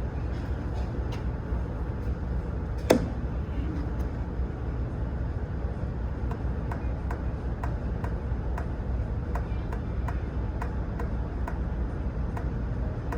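Steady low rumble of an idling vehicle engine, with one sharp click about three seconds in and, from about halfway through, faint regular ticking about two to three times a second.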